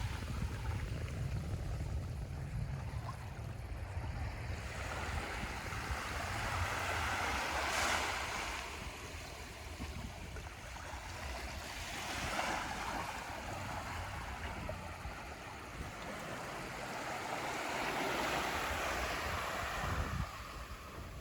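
Small waves washing onto a sandy beach, each wash swelling and fading every few seconds, with a steady low rumble of wind on the microphone.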